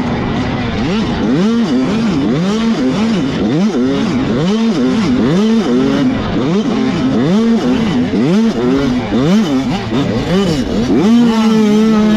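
Several 85cc two-stroke motocross bikes racing, their engine notes overlapping and repeatedly rising and falling as riders rev out and shift. Near the end one engine holds a steady high note.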